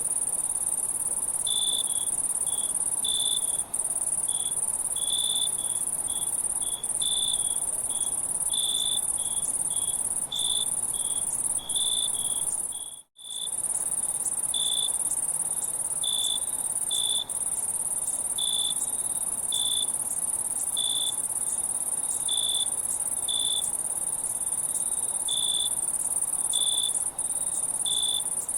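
Insect chorus: a steady high trill with crickets chirping over it in short, separate chirps about once or twice a second. The sound cuts out for an instant about thirteen seconds in.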